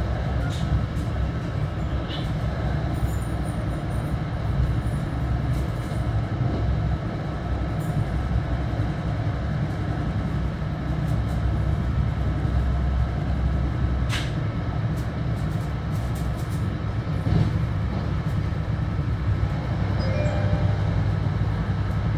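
Steady rumble of an MBTA Bombardier BTC-1B commuter rail coach running at speed, heard from inside the car. There is one sharp click about fourteen seconds in and a few fainter ones.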